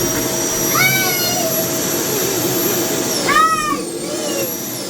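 Vacuum cleaner motor running with a steady high whine that sags in pitch near the end. Over it come two short, high, rising-then-falling calls about two and a half seconds apart, the second louder.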